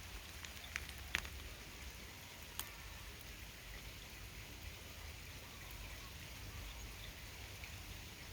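Steady rain falling, with a few sharp drips striking close by about a second in and again near three seconds.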